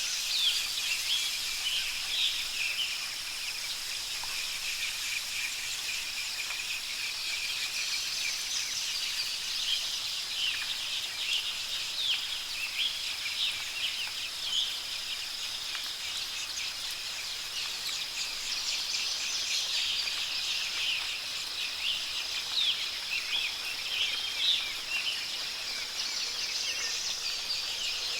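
Many birds chirping and calling in quick, overlapping short notes over a steady high-pitched hiss with a constant high tone.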